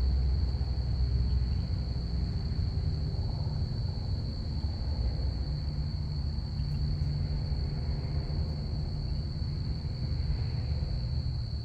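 Crickets chirping in an unbroken high-pitched trill, over the low rumble of a passing aircraft that is loudest at the start and slowly fades.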